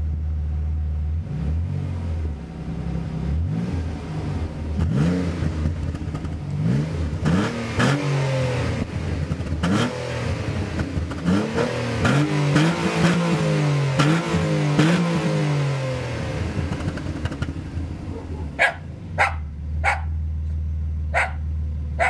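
Alfa Romeo Spider 3.0 V6 with a Ragazzon exhaust idling, then revved again and again in quick blips, the revs rising and falling, before settling back to a steady idle. A dog barks several times near the end.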